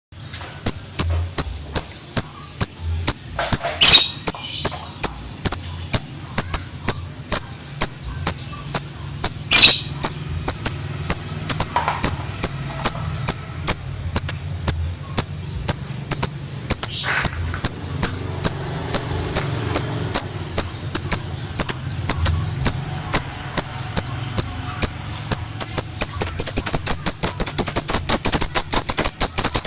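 Lovebird singing in sharp, high chirps repeated about two or three times a second, running together near the end into a fast unbroken trill: the rapid 'ngetik' song that keepers prize. A couple of louder clicks stand out early on.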